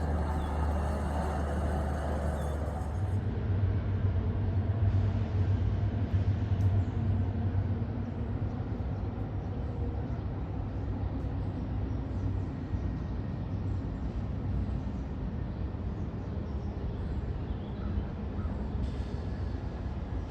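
Diesel locomotive engine running with a steady low drone, which rises slightly in pitch about three seconds in.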